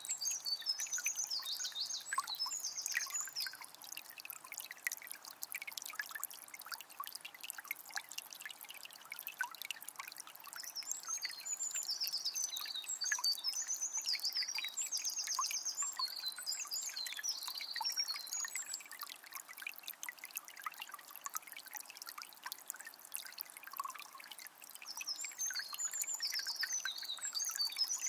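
Shallow forest river trickling and splashing over stones in a steady stream. A small bird sings high, fast trilled phrases near the start, again in the middle and near the end.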